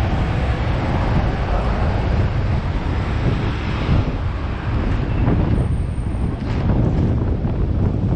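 Hong Kong double-decker tram running, a steady low rumble of the car on its rails, with wind buffeting the microphone.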